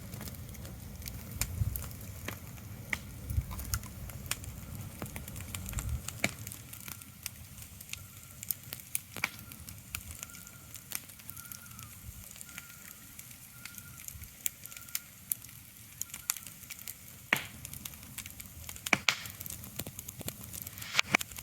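Crackling of a fire: irregular sharp pops and snaps over a faint steady hiss, with a low rumble under it for the first six seconds or so. A faint short note repeats several times in the middle.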